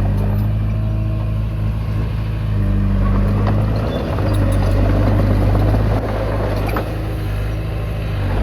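Komatsu D20P bulldozer's diesel engine running steadily, with a few short clanks over it; the engine sound eases slightly about six seconds in.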